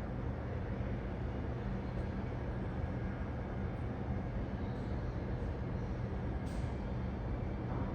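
Steady low engine rumble with an even hum, unchanging throughout.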